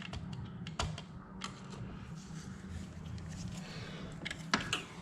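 A few sharp clicks and taps of hand tools working on the screws of a Yamaha YZ85 engine case: one right away, two more in the first second and a half, and a small cluster near the end. A steady low hum runs underneath.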